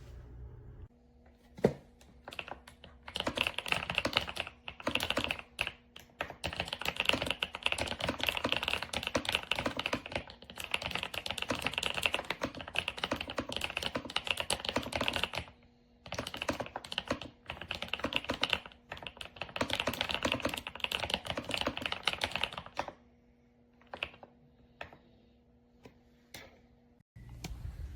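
Fast typing on a Kisnt gasket-mounted mechanical keyboard with linear switches: long runs of rapid keystrokes broken by short pauses, thinning to a few scattered strokes near the end.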